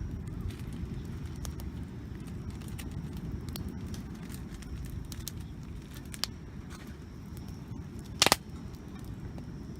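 Wood campfire crackling, with scattered sharp pops over a steady low rumble; the loudest is a quick double pop about eight seconds in.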